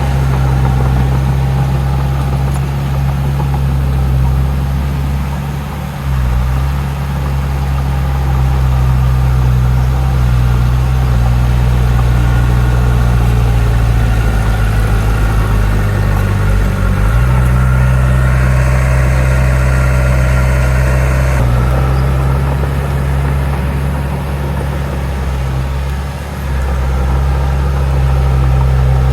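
Heavy diesel engine of earthmoving machinery running steadily, its low note shifting in pitch a few times, with a stretch of hiss-like noise a little past the middle.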